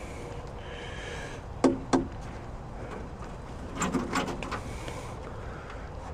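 Two sharp knocks in quick succession about a second and a half in, then a short run of clicks and rattles near the middle.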